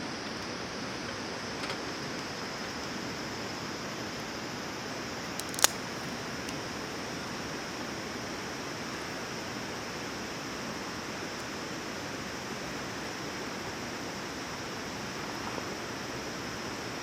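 Wood campfire burning: a steady hiss with a few faint crackles and one sharp pop about five and a half seconds in.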